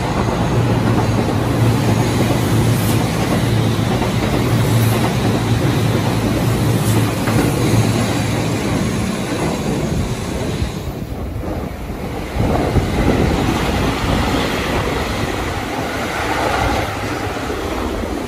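Seibu Railway electric trains, including the 001 series Laview limited express, passing close by station platforms. The wheels run on the rails with a loud, steady noise and a low hum through the first half. The sound shifts abruptly about eleven seconds in and again a moment later as the scene changes to another passing train.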